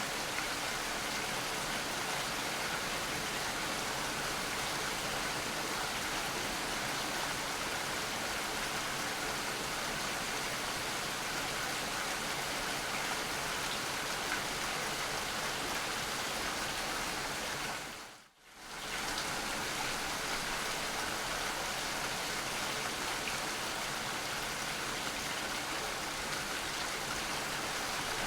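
Steady rain falling, an even hiss of drops. About two-thirds of the way through it fades out almost to silence for under a second and comes straight back.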